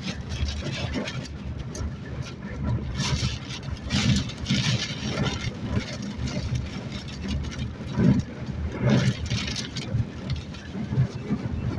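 Wind gusting and buffeting the microphone, with rain, in irregular surges about every few seconds.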